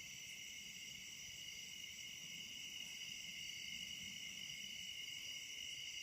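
Chorus of night-calling insects such as crickets, a steady, unbroken high-pitched ringing at two pitches.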